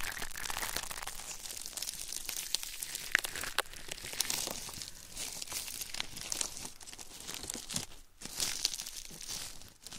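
Close-up crinkling and crackling, a dense run of fine crackles with sharper clicks now and then, briefly dropping away about eight seconds in.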